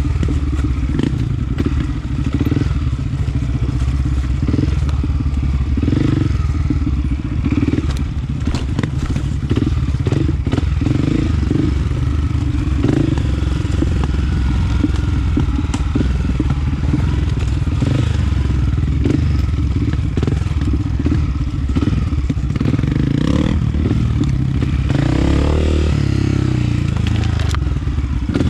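Honda CRF250F four-stroke single-cylinder trail bike engine running under load on a rough trail, heard from a helmet-mounted camera, with knocks and clatter from the bike over the ground. The engine revs up and back down once near the end.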